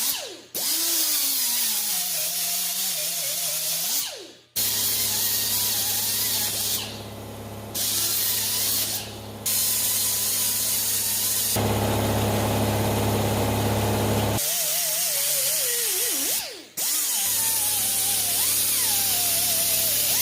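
Handheld power grinder smoothing a TIG weld on a cast aluminium rearset mount: a steady grinding hiss with a motor whine that wavers in pitch. It stops and winds down a few times, then starts again.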